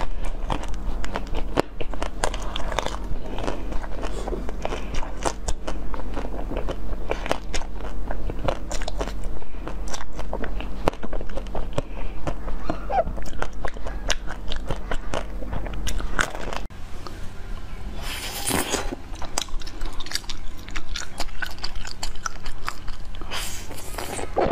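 Close-miked biting and chewing of soft pink jelly sweets: a dense run of small wet, clicky mouth sounds over a steady low hum. About two-thirds through, the background changes, and a few separate louder bites follow, the last into a cob of black corn.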